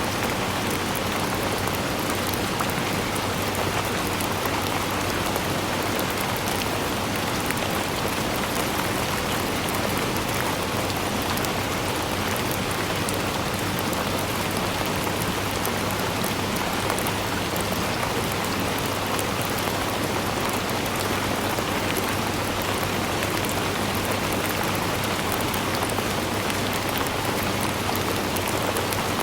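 Steady rainfall: an even hiss of rain with many fine drop ticks, unchanging in level.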